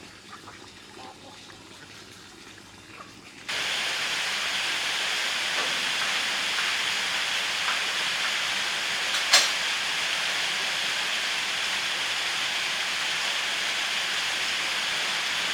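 Loud, steady rushing of water that starts abruptly about three and a half seconds in, with one sharp knock about halfway through. Before it there are only faint clicks.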